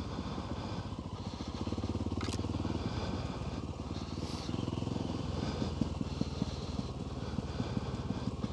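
Off-road motorbike engine running steadily at low trail speed, its exhaust pulses rising and falling a little with the throttle.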